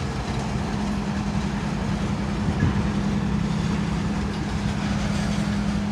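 Approaching Norfolk Southern freight train: the diesel locomotive's engine running with a steady low hum over a rumble.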